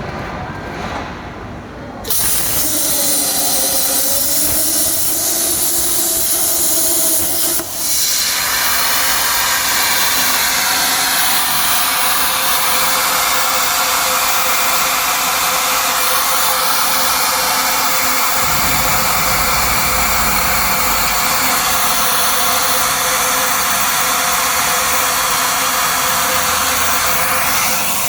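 Hypertherm Powermax125 air plasma torch cutting galvanized steel: a loud, steady hiss that starts abruptly about two seconds in, breaks briefly near eight seconds, then carries on evenly.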